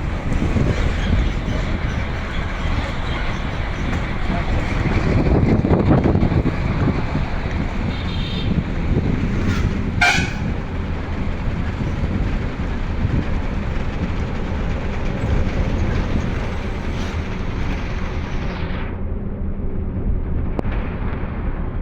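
Steady road noise of a motorcycle ride: engine and rushing air on the microphone. A short, sharp sound cuts through about ten seconds in.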